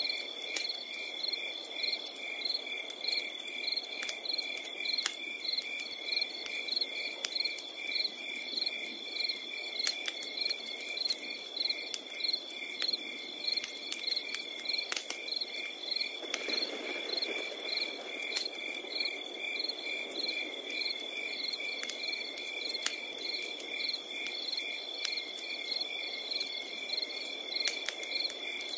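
Crickets chirping in an even rhythm, about two chirps a second, over a continuous high insect trill. Scattered sharp crackles of a wood campfire come through, with a soft low rush from the fire that swells for a couple of seconds midway.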